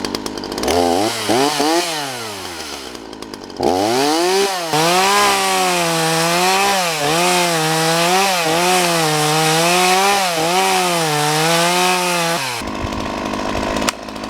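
Ryobi RY3714 two-stroke chainsaw revving: a quick rev up and down, then held at high speed for about nine seconds, its pitch sagging and recovering again and again as it cuts wood. It drops off near the end.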